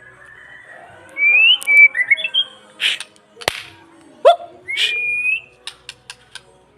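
White-rumped shama singing: clear whistled notes that glide up and down, mixed with short harsh rasping notes, and one sharp click about midway.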